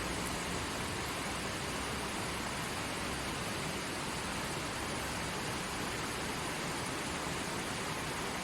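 Forest stream flowing steadily, an even rushing of water without breaks or changes.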